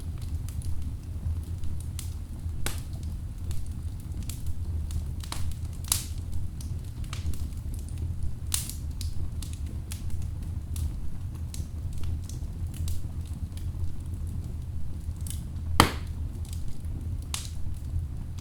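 Wood fire burning in a fireplace: a steady low rumble with irregular crackles and pops of burning logs, one louder pop near the end.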